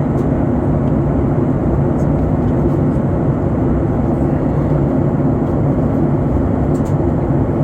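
Steady in-flight cabin noise of an airliner: the constant rush of engines and airflow heard from inside the cabin.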